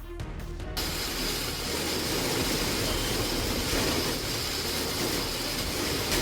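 Strong storm wind and heavy rain making a steady, dense roar that starts suddenly about a second in, after a brief bit of background music.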